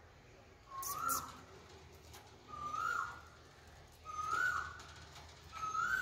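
A caged bird repeating a short whistled call, each note rising then falling, about every second and a half, four times. A brief scratch is heard with the first call.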